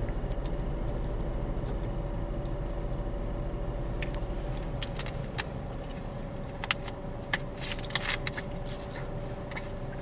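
A water bottle being opened and handled, with scattered sharp clicks and crinkles from about four seconds in, densest near eight seconds, over a steady mechanical hum.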